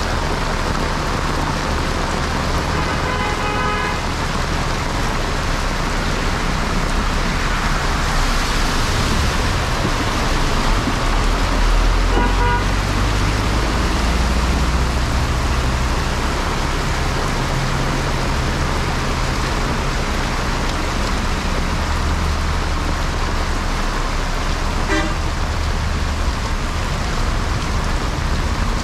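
Heavy rain pouring steadily on a road, with a large truck's engine rumbling past through the middle. Vehicle horns honk three times: about a second long near the start, then two shorter toots in the middle and near the end.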